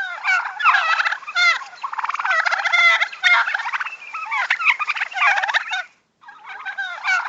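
Turkey gobbling: a run of rapid, rattling gobbles, with a short break about six seconds in before they start again.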